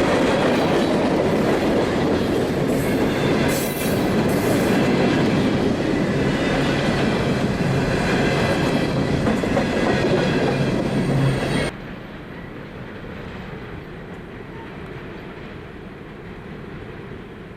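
Train cars rolling past close by, a loud steady rumble with clacking over the rails and a few brief high wheel squeals in the first few seconds. The sound cuts off abruptly about twelve seconds in, giving way to a much quieter steady hum.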